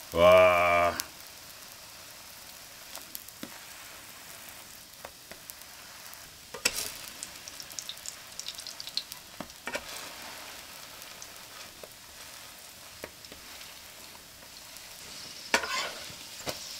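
Hotteok sizzling in hot oil in a nonstick frying pan, a steady hiss throughout. A metal spatula scrapes and taps against the pan now and then, loudest about seven seconds in and again near the end.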